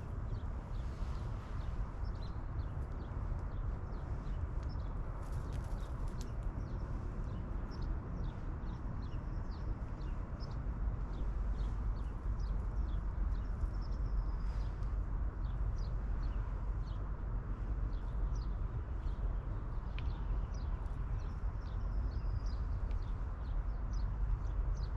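Rain falling outdoors: a steady hiss with a low rumble underneath and many scattered drip taps, and a few short high chirps.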